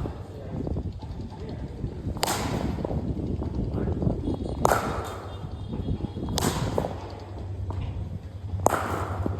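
Cricket bat striking the ball with a sharp crack, four times about two seconds apart.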